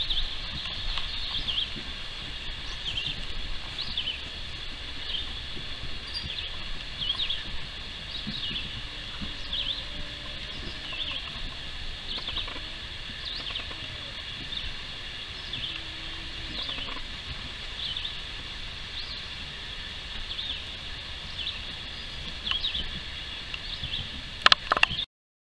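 Outdoor ambience of birds chirping: short high calls repeating about once a second over a steady background of distant birdsong. A few sharp knocks come near the end, then the sound cuts off.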